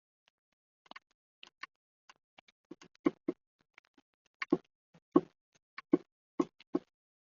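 Hand tools and metal brake parts knocking and clicking irregularly during a rear brake job. The knocks are faint at first and get louder from about three seconds in.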